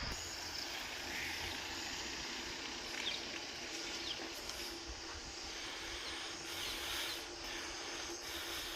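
Countryside morning ambience: a steady hiss with a low rumble underneath, and a few faint short bird chirps about three to four and a half seconds in.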